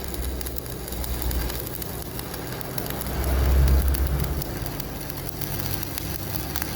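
Electric arc welding on a cracked steel truck wheel rim: a steady crackling arc over the low hum of the welding machine. The hum grows louder for about a second midway.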